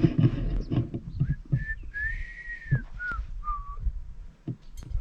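A person whistling a short run of about five clear notes, the middle one long and arching up and back down, over a low rumble with a few clicks.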